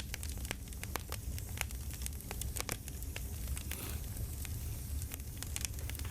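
Campfire crackling: irregular pops and snaps over a low, steady rumble of burning wood.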